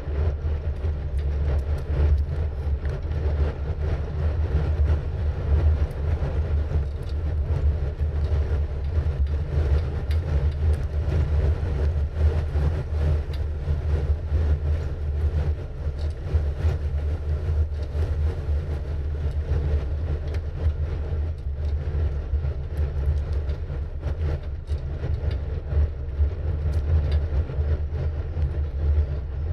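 Steady low rumble of wind on the microphone and tyres on the road during a bicycle ride, with faint scattered ticks throughout.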